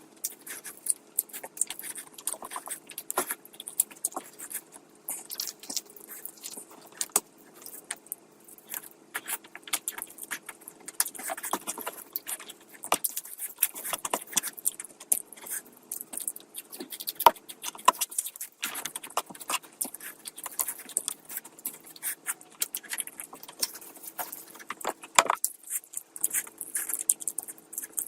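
Close-miked eating: chewing and mouth clicks, dense and irregular, over a faint steady hum.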